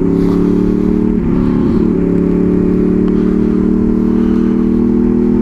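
Honda VFR 800 Interceptor's V-four engine idling at a steady pitch.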